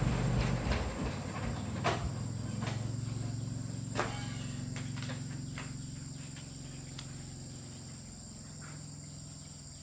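A low, steady mechanical hum slowly dying away, with a few sharp clicks and knocks and a steady high, thin whine over it.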